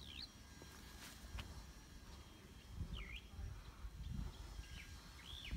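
Birds calling: about four short whistled calls, each dipping and rising in pitch, spaced a second or two apart, over a faint low rumble.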